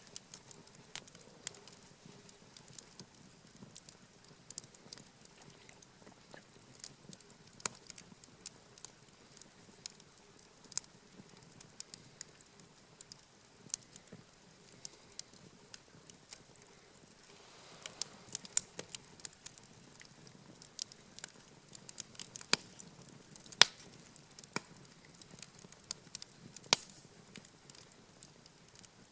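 Wood campfire crackling, with scattered sharp pops that come thicker and louder from a little past halfway through.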